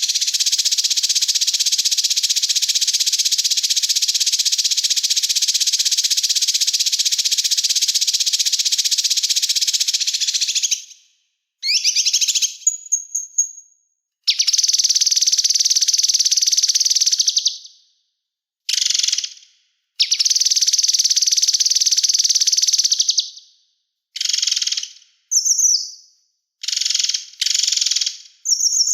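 Small songbird singing a rapid, high-pitched trill: one unbroken run for about the first eleven seconds, then a string of shorter bursts, some a few seconds long and some under a second, with brief gaps between them.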